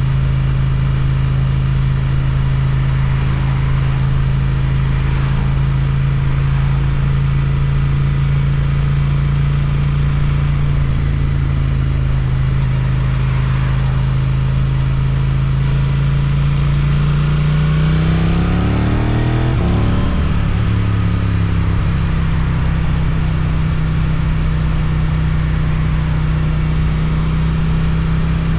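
Suzuki GSX-8TT motorcycle with an Akrapovič exhaust, riding at a steady engine speed. About two-thirds of the way through the revs climb, break briefly, and settle at a slightly higher steady note.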